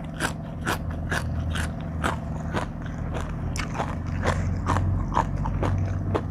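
Close-miked eating of a spicy papaya salad: crunchy bites and chewing, about two crisp crunches a second.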